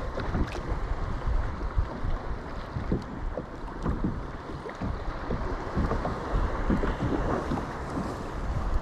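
Wind buffeting the microphone over rough, choppy sea, with waves splashing around a sea kayak. It comes in uneven gusts.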